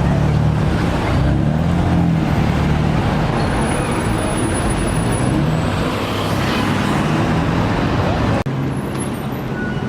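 Street traffic with vehicle engines running steadily at low revs; the sound breaks off for an instant about eight seconds in.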